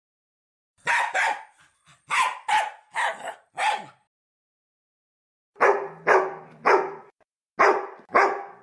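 A dog barking in short sharp barks, recorded barks played from a dog-sounds app: a run of about six, a pause of about a second and a half, then five more.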